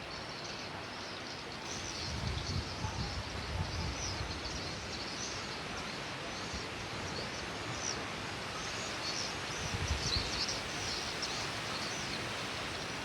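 Steady rain falling, with wind gusts rumbling low about two seconds in and again around ten seconds. Short high chirps repeat throughout over the rain.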